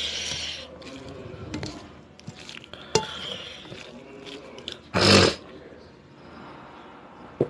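Dishes and utensils clinking and scraping on a plate during a meal, with a sharp click about three seconds in and a short, louder noisy burst about five seconds in.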